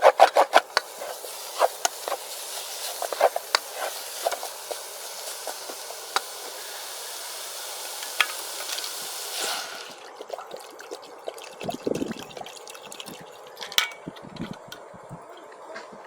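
Shallots frying in oil in a pan, sizzling, with a utensil scraping and tapping the pan in quick strokes at first; the cook calls the fried shallots ruined. The sizzle cuts off abruptly about ten seconds in, leaving a few quieter knocks.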